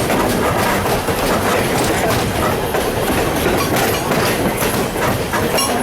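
Railroad cars rolling along the track, a steady rumble with the wheels clicking over the rail joints.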